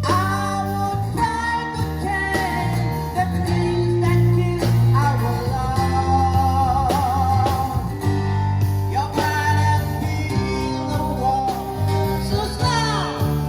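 A man singing a held, wavering melody with vibrato, backed by a live band with guitar and a steady bass line.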